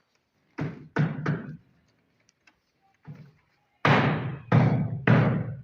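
A series of heavy thuds or knocks, about seven, unevenly spaced: three in quick succession early, then a faint one, then three loud ones near the end.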